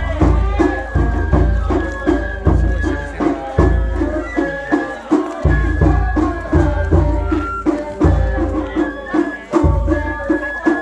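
Japanese festival-float hayashi music: a high bamboo flute melody over quick, steady drum strokes, with heavy bass drum hits throughout.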